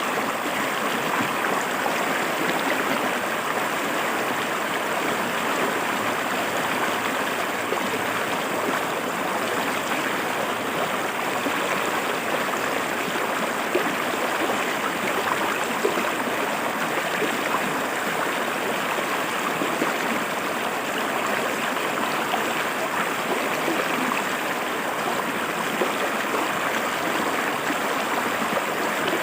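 Shallow river water flowing and splashing over rocks, a steady, even rush with small gurgles and splashes.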